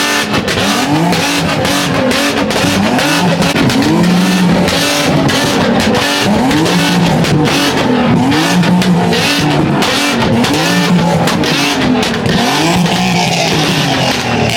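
Car engine revving hard, its pitch climbing and falling over and over, over a loud hiss of tyre noise: a car doing a burnout or donuts.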